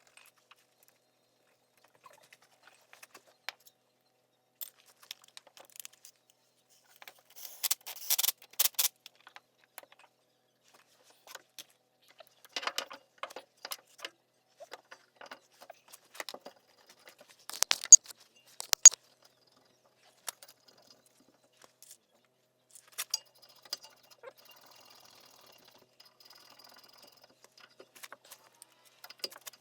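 Metal brake parts and hand tools clinking and clicking against each other in scattered bunches during brake caliper work, with two sharp loud clinks about eighteen and nineteen seconds in.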